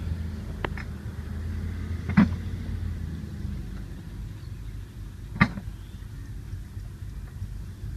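A low, steady engine hum that fades away about halfway through, with two sharp knocks about three seconds apart.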